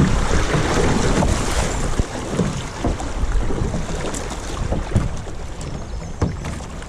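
Wind buffeting the microphone over splashing water on a river kayak run, with a few sharp knocks about two, four, five and six seconds in.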